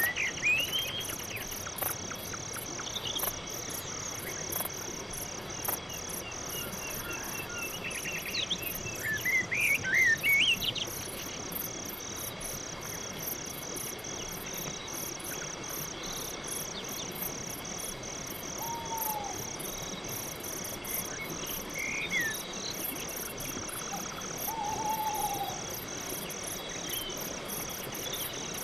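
Crickets chirping steadily in an even rhythm, about two chirps a second, in a night forest. Scattered bird calls sound over them, the loudest a short burst of song about nine to ten seconds in.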